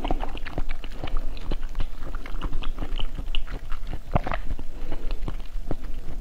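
Close-miked biting and chewing of a green basil-seed ice treat: a dense run of quick, crisp crackles and clicks, with a louder crunch about four seconds in.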